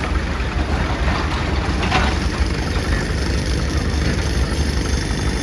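Excavator's diesel engine running steadily with a heavy low rumble, and a short sharp noise about two seconds in.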